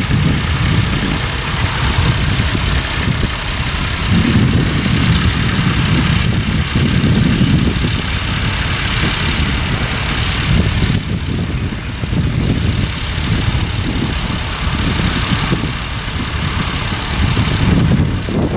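Tractor engine running steadily, with an irregular low rumble that swells and fades.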